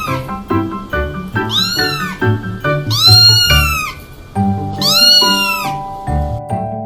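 Domestic cat meowing three times, each meow rising then falling in pitch, over background music.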